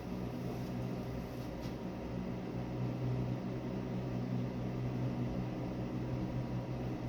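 A small electric fan running steadily, with a constant mains-type hum under an even whir of moving air.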